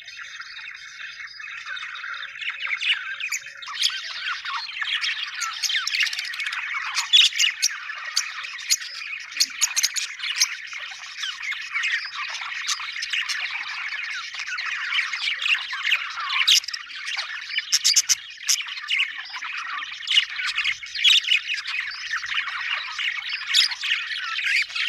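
A flock of budgerigars chattering continuously, many overlapping warbles, chirps and sharp squawks, busier from about three seconds in.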